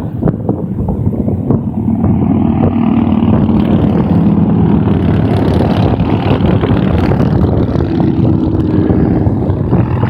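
A line of motorcycles going by on a highway, several engines running at once in a loud, steady din.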